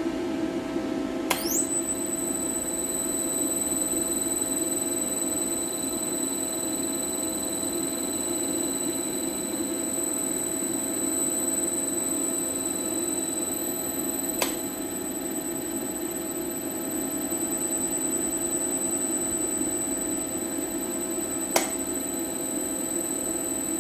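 A repaired LS iS5 (SV220iS5-4N) inverter running on test, with a steady electrical hum. About a second in, a quick rising sweep settles into a steady high-pitched whine. Two sharp clicks come later.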